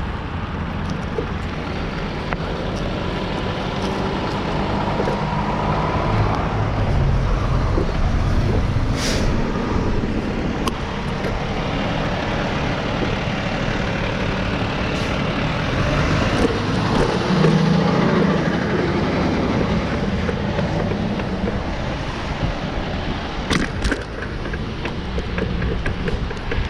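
Steady road traffic noise from passing cars and trucks, with a couple of brief sharp clicks.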